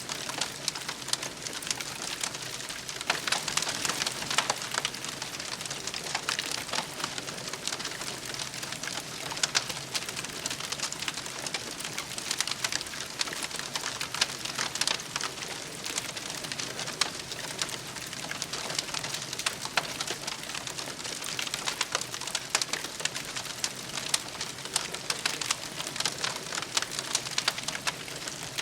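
Campfire burning, the wood crackling and popping in a continual irregular patter of sharp snaps over a soft steady hiss.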